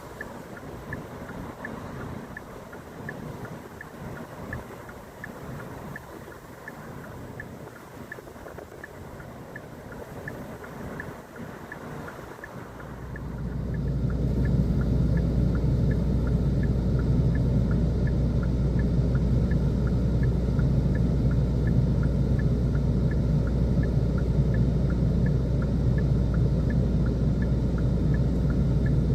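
Winter wind in a snowfall, gusting unevenly, then about halfway through swelling into a heavy, steady low rumble of wind buffeting the microphone.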